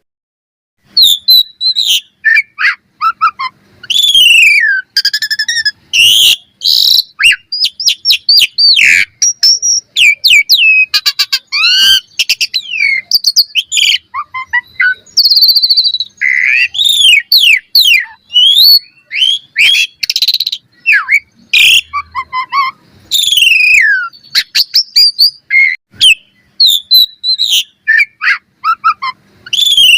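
Asian pied starling (jalak suren) singing a loud, fast, varied song of whistles, rising and falling gliding notes and rapid clicking runs. The song comes in short phrases with brief silent gaps between them.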